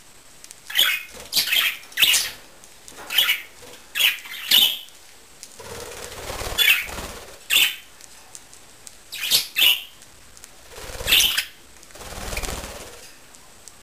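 Budgerigars' wings flapping in short flurries, about a dozen times, as the birds fly in and land. There are two longer, softer rushes of sound, one near the middle and one near the end.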